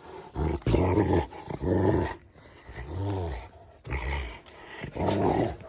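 Rottweiler growling in play, a series of about six low growls with short breaks between them.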